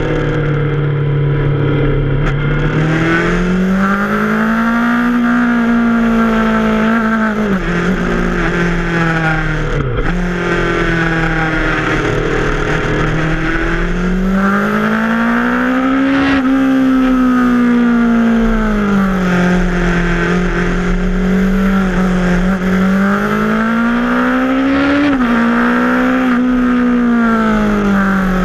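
Yamaha FZ6R motorcycle's 600 cc inline-four engine under way, its pitch climbing and falling again and again as the throttle is worked, with a few quick drops in revs near 8, 16 and 25 seconds in. Steady wind rush runs underneath.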